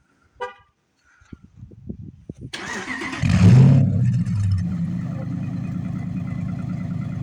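Warm start of a 2014 Ram 1500's 5.7 Hemi V8 through a 5-inch custom exhaust: the starter cranks for about a second and a half, the engine catches about three seconds in with a loud flare of revs, then settles into a steady idle.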